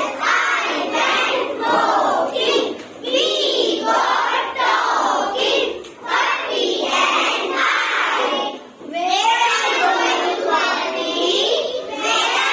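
A group of children reciting a poem together in unison, in a rhythmic sing-song chant with short pauses between lines.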